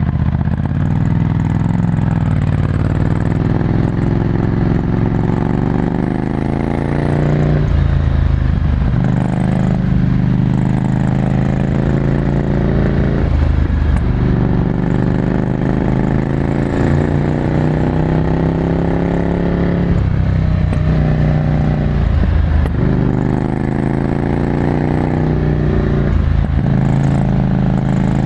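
Ducati Scrambler Desert Sled's air-cooled L-twin engine through a full Termignoni exhaust, heard from on board while riding. The revs climb under throttle and then drop about six times, at gear changes or as the throttle is closed.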